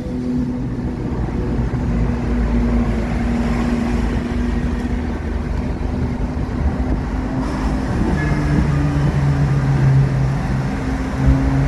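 Jeep TJ engine, freshly replaced and running on a new fuel pump, running steadily at low revs with an even low rumble; its note shifts slightly about eight seconds in.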